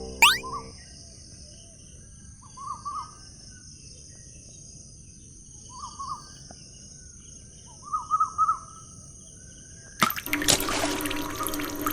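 Quiet outdoor ambience with a bird chirping a few short calls. About ten seconds in, water starts running and splashing, much louder than the ambience.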